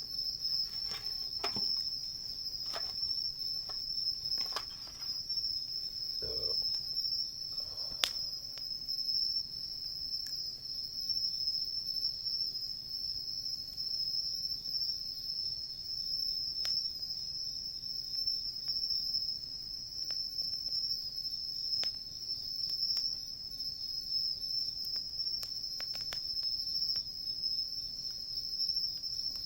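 Crickets chirping in a steady, continuous high trill. Occasional sharp pops and crackles come from the wood campfire, the loudest about eight seconds in.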